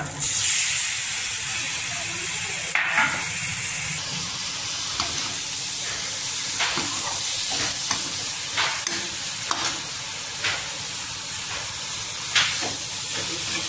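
Boiled jackfruit pieces dropped into hot masala in a metal kadhai, sizzling loudly as they hit the pan and then hissing steadily while frying. A metal ladle stirs them, knocking and scraping against the pan every second or two.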